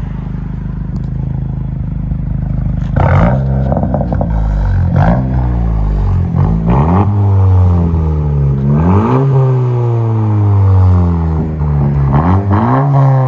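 A Honda Civic Si's four-cylinder engine, heard through a loud exhaust with the resonator and rear muffler deleted. It runs steadily for about three seconds, then revs up hard several times, its pitch climbing and dropping back at each gear change, with some sharp crackles between pulls.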